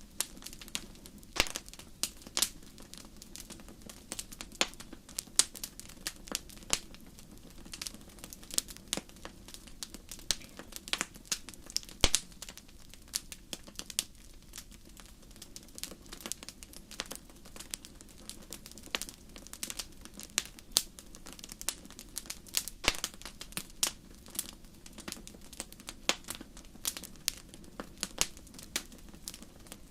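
Wood fire crackling in a fireplace: irregular sharp pops and snaps, several a second, over a low steady rush of burning.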